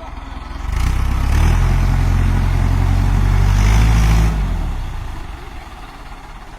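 Tractor engine running hard under load, loud for about three seconds, then easing back to a lower, steady run.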